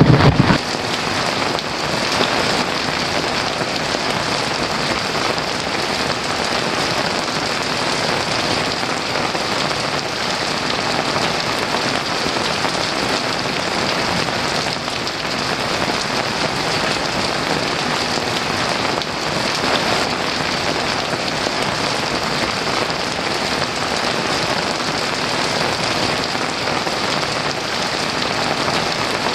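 Heavy rain pouring steadily. The tail of a low thunder rumble dies away about half a second in.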